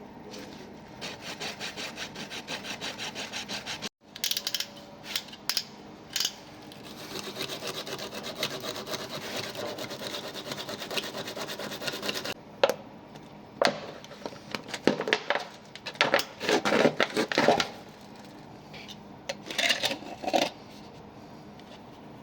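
Rhythmic scraping strokes, about three a second, then after a sudden break more steady scraping, followed by irregular louder knocks and clatter.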